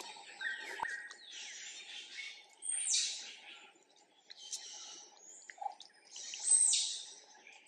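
Birds chirping and calling in a run of high calls, with two louder sweeping calls, one about three seconds in and one near the end.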